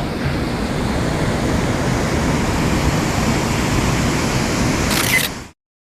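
Rushing water of a mountain stream, a steady even roar that cuts off suddenly about five and a half seconds in.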